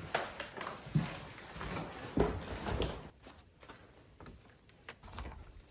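A series of irregular knocks and thumps, the loudest about one second and two seconds in, quieter in the second half.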